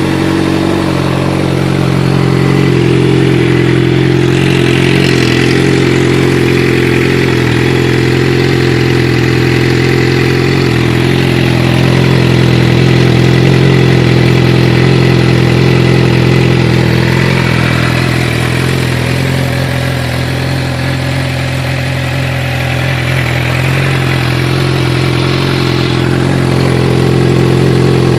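2013 Suzuki GSX-R600's inline-four engine idling steadily through an M4 slip-on exhaust, already warm.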